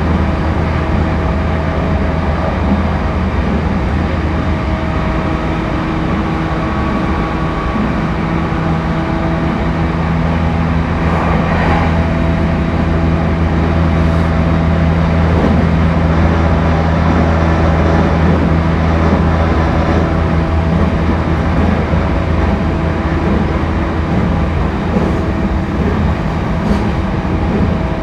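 Refurbished E231-1000 series electric commuter train running at steady speed, heard from inside a passenger car. Continuous rumble of wheels on the rails under a steady, unchanging motor hum.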